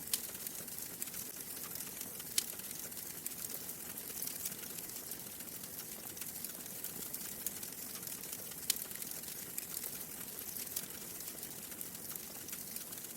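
Wood fire crackling in a fireplace: a steady hiss with scattered small pops and a few sharper snaps, the loudest about two seconds in and near the middle.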